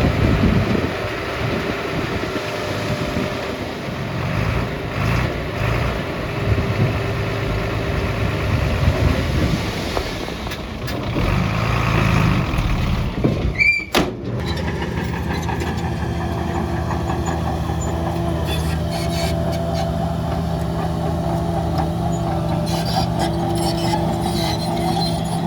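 Heavy diesel earth-moving machinery working: an uneven, labouring engine noise for about the first half. It breaks off suddenly and is followed by a steady diesel engine drone for the rest.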